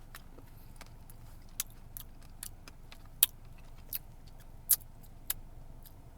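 Mouth sounds of someone chewing sweet cherries: about a dozen short, sharp, wet clicks and smacks at irregular intervals, over a steady low hum.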